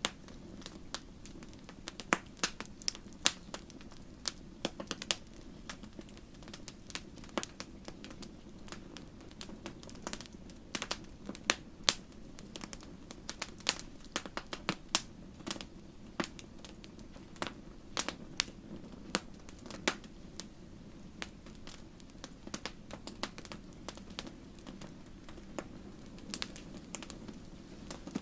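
Wood campfire crackling: irregular sharp pops and snaps over the low, steady rush of the flames.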